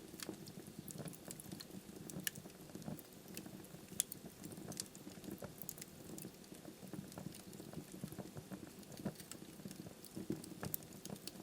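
Wood fire burning in a fireplace: a soft steady hiss and flutter of flames with irregular crackles and pops from the logs, a few sharper pops standing out.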